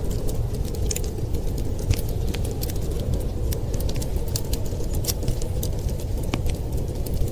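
Wood fire crackling with frequent irregular sharp pops over a steady low rumble of blizzard wind.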